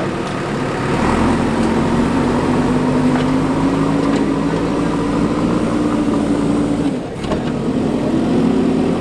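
Diesel engine of a JCB 3DX backhoe loader working under load, its pitch climbing slowly, dipping sharply about seven seconds in, then rising again.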